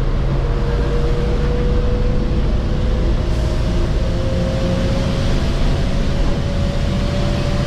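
Bus engine and road noise heard from inside the cabin, with a thin whine that rises slowly in pitch as the bus picks up speed.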